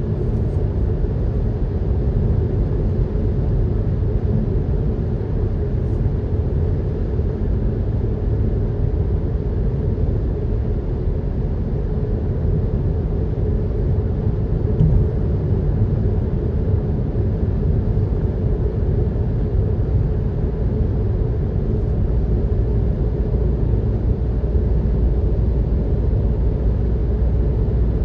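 Steady low rumble of tyres and engine heard from inside a moving vehicle's cabin while driving, with one brief bump about halfway through.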